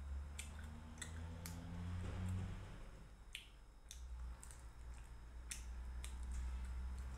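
Close-up mouth sounds of eating by hand: chewing with sharp, wet lip smacks and clicks about once a second, over a low steady hum.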